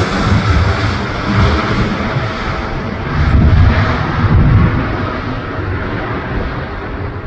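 Jet airliner taking off, its engines at takeoff thrust making a loud, deep, uneven rumble that slowly fades and dulls as the aircraft climbs away.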